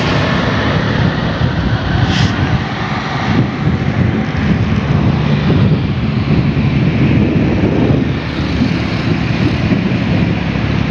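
Steady drone of long-arm excavator diesel engines running, mixed with wind on the microphone.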